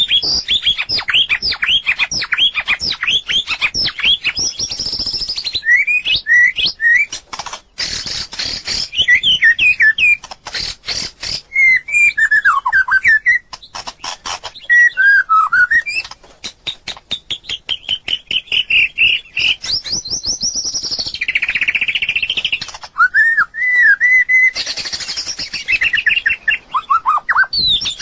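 White-rumped shama singing: a continuous, varied song of rapid chattering notes, sweeping whistles and trills that change phrase every second or two.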